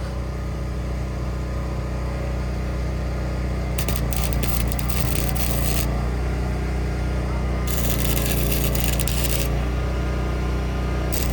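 Arc welder laying short beads on broken exhaust hangers: three crackling bursts of about two seconds each, over a steady low hum.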